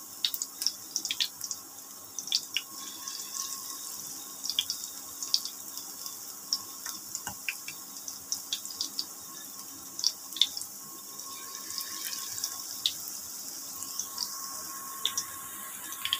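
Garlic and gram-flour pakoras deep-frying in hot mustard oil: a steady sizzle with irregular crackling pops, over a faint steady hum.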